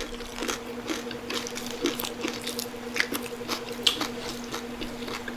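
Close-up chewing of crispy pata (deep-fried pork knuckle), with many short crunches and wet squishes at an uneven pace over a steady low hum.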